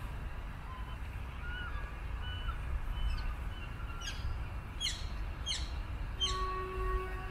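Small birds chirping. A few short whistled notes come first, then a run of quick downward-sweeping chirps starts about four seconds in. Underneath is a steady low outdoor rumble, and a held pitched tone sounds near the end.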